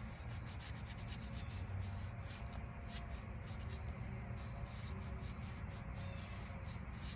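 Soft, steady rubbing and scratching on a small wooden piece as another coat of finish is worked in, with faint small ticks.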